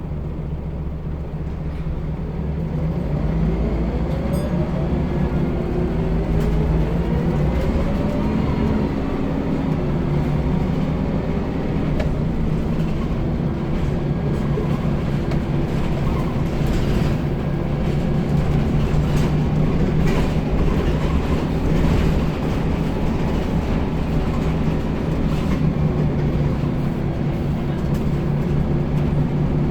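Scania L94UB bus's nine-litre five-cylinder diesel engine running under way. Its pitch rises as it accelerates a few seconds in and again around eight to ten seconds, with scattered clicks and rattles throughout.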